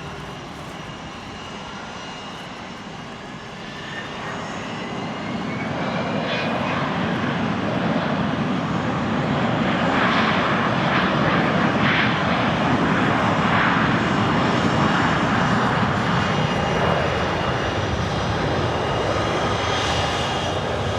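Bombardier Global Express XRS business jet landing: its turbofan noise, with a faint rising whine, builds from about four seconds in and is loudest around the middle, then eases off a little.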